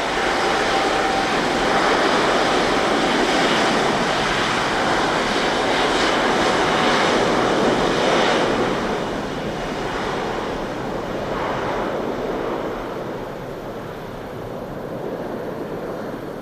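Jet engine roar from an Airbus A350-900's Rolls-Royce Trent XWB engines. It holds loud for about eight seconds, then fades away.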